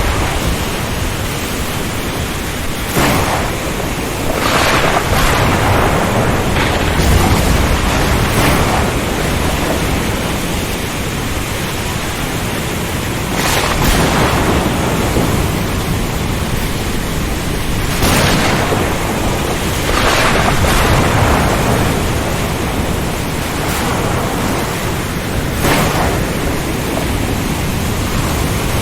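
Storm-at-sea ambience: a dense, steady roar of wind and rain with surges every few seconds and low rumbles.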